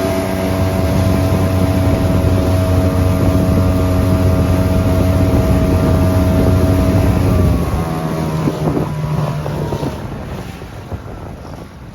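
1994 Yamaha 4 hp two-stroke outboard running steadily at speed, with wind on the microphone. About seven and a half seconds in it is throttled back and its note drops to a lower pitch. Near the end the engine note fades away, leaving wind and water noise.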